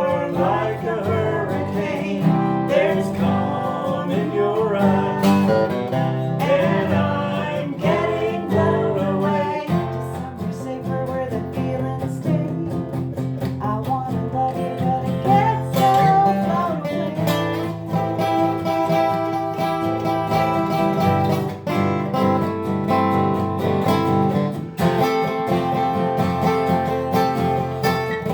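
Acoustic guitar strummed in a steady song accompaniment, with a voice singing over it for roughly the first third.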